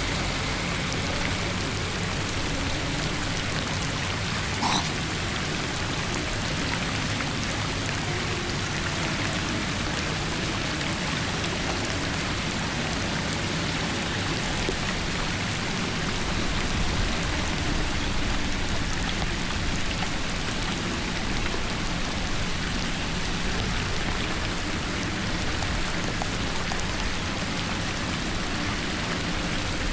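Steady rushing and splashing of water, with one brief knock about five seconds in.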